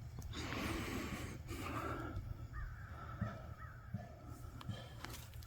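Faint crow cawing: about three short calls in quick succession a little past the middle.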